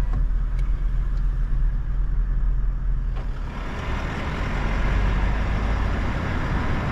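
Toyota LandCruiser 79 Series rolling slowly in first gear, its engine rumbling low inside the cab. About three seconds in, a hiss of tyre and road noise grows louder as it moves on.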